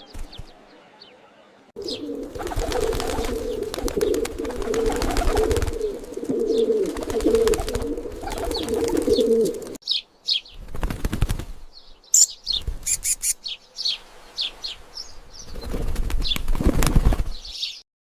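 Pigeons flapping their wings and cooing in a dense stretch, then a series of broken flaps with short, high bird chirps in the second half.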